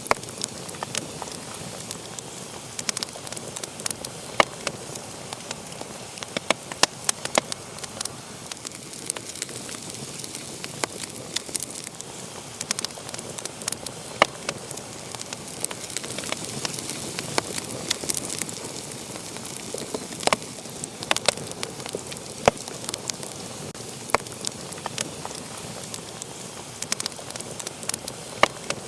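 Wood fire burning in a fireplace: a steady hiss with frequent irregular crackles and sharp pops.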